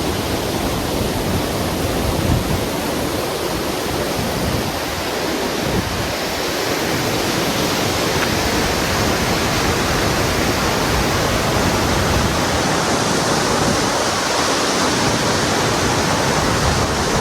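Waterfall: a steady rush of falling water that grows a little louder partway through.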